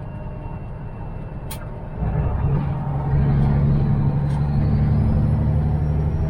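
Peterbilt semi truck's diesel engine running at a low rumble, then pulling hard and much louder from about two seconds in as the driver gets on the throttle. A thin turbo whistle rises near the end, and there is a sharp click about a second and a half in.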